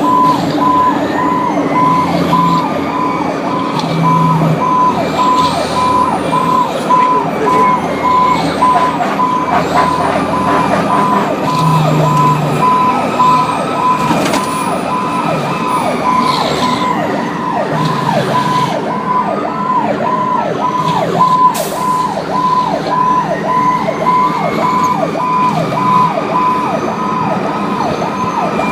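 Fire apparatus sirens on a response: an electronic siren on a fast yelp, about two sweeps a second, with a second siren wailing slowly up and down over it, above a fire truck's engine.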